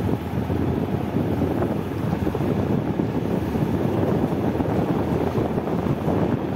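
Wind buffeting the microphone of a moving motorcycle, mixed with the bike's engine and road noise as a steady rumble.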